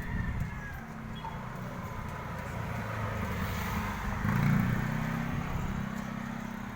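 A motor or engine running with a low hum, growing louder and peaking about four and a half seconds in, then easing off.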